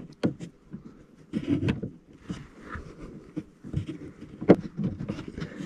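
Hands working a plastic bulb holder into a car tail-light housing: scattered sharp plastic clicks, knocks and rustling as it is pushed and twisted, without locking into place.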